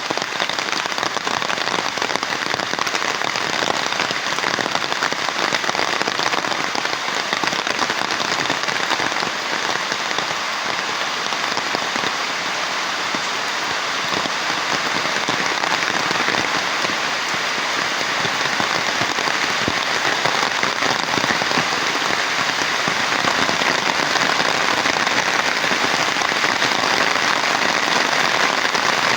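Heavy rain falling steadily: a dense, even hiss of countless drops hitting the ground and surfaces.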